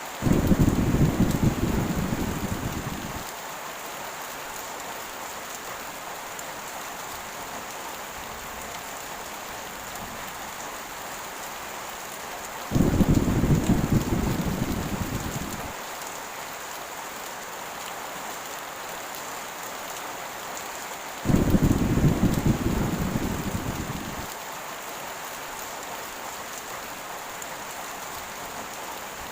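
Steady heavy rain, with three low claps of thunder that each start suddenly and rumble away over about three seconds: one at the very start, one a little before halfway and one about three quarters through.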